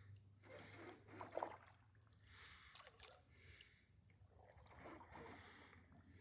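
Faint water sounds around a canoe: soft splashes and lapping against the hull, coming in small bursts about once a second, one slightly louder near a second and a half in.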